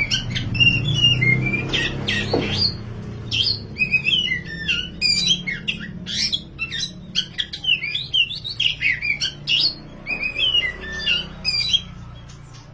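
Black oriental magpie-robin (kacer wulung) singing a fast, varied song of whistled notes, slurs and harsh phrases, one phrase after another with short pauses, over a low steady hum. The song stops shortly before the end.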